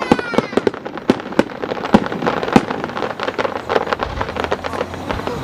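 Fireworks bursting in rapid succession: many sharp bangs and crackles, several a second, densely overlapping.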